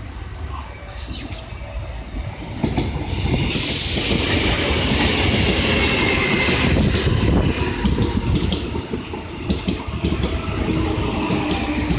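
Seoul Metro 4000-series electric train arriving at a station and passing close by: a low rumble that grows louder about two and a half seconds in, with a bright high rushing noise from the running gear for a few seconds after, and scattered clicks of the wheels on the track.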